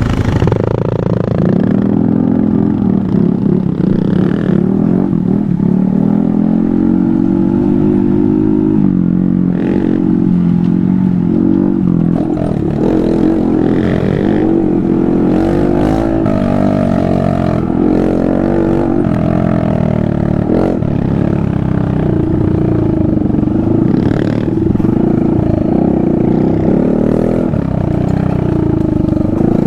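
Small motorbike engine under way, its pitch climbing and dropping as the throttle opens and closes through gear changes, with occasional clatter.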